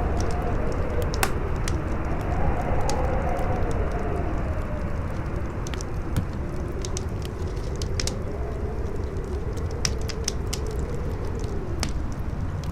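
Howling wind, its whistle rising and falling in slow swells, over a wood fire crackling with frequent sharp pops.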